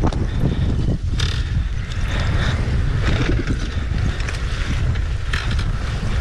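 Dirt bike engine running while being ridden over rough ground, with heavy wind buffeting on the helmet-camera microphone and occasional clattering knocks.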